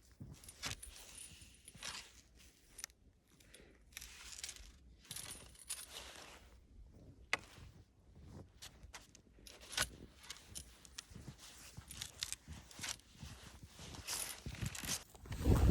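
Irregular crunching and scuffing of snow underfoot, with a louder low rustle near the end.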